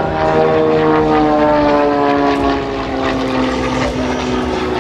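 Aerobatic Extra 300 monoplane's six-cylinder engine and propeller droning loudly overhead, the pitch falling slowly and steadily through most of the few seconds.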